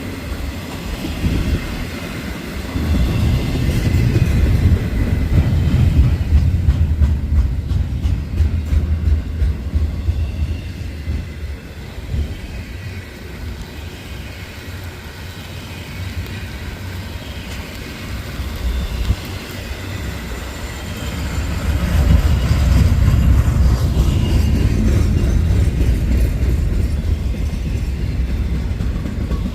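Freight train rolling past: a steady low rumble of railcars and wheels on the rails, with some clickety-clack. It swells twice, once early and again near the end, with a quieter stretch in the middle.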